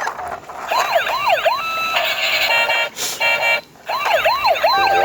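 Electronic toy police-car sirens wailing in quick up-and-down sweeps, about two a second, with several sirens overlapping. A stretch of steady held tones comes in about two seconds in, and the sound breaks off briefly near the end.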